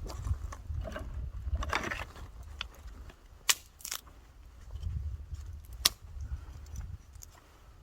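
Wood fire burning in a fire pit, crackling, with a few sharp pops (the loudest about three and a half and six seconds in) over a steady low rumble.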